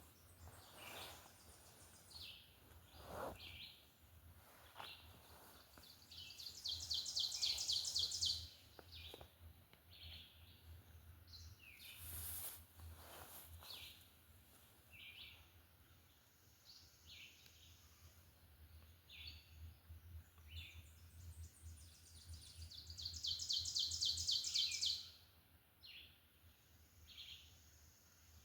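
A songbird singing a fast, high trill twice, each about two seconds long, with scattered short chirps of other birds between.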